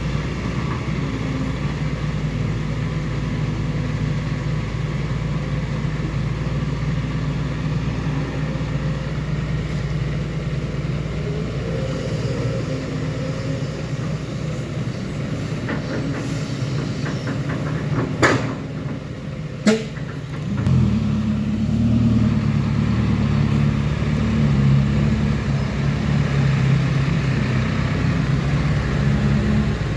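Heavy diesel engine of a six-wheel dump truck running steadily. About 18 and 20 seconds in come two sharp bangs, and then a louder engine runs on with its pitch rising and falling.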